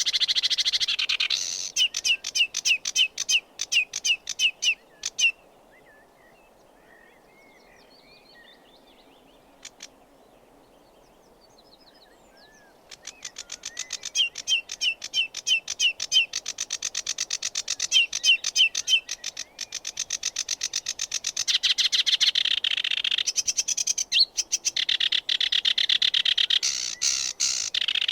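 Sedge warbler singing: a fast, chattering stream of rapidly repeated notes. The song breaks off about five seconds in, leaving only faint scattered bird calls, and starts again about thirteen seconds in.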